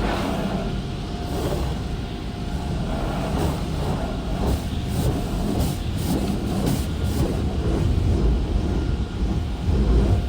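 Tunnel car wash equipment working on the car, heard from inside it: a steady low rumble with several short hissing bursts.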